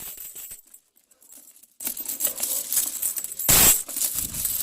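A pile of loose 5-peso coins clinking and jingling as they are handled and poured, with scattered clicks at first and a denser, louder spill about three and a half seconds in.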